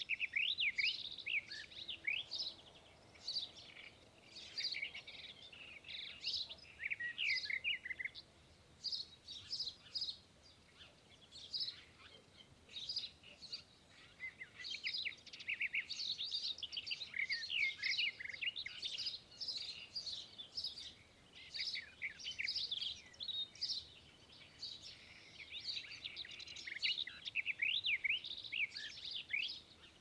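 Small birds chirping and singing: many quick, sweeping high notes, with a quieter spell about halfway through.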